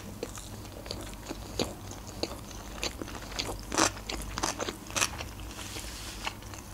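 Close-miked chewing of a mouthful of sushi roll: irregular wet mouth clicks and soft crunches, a few a second, with one louder click a little before the four-second mark.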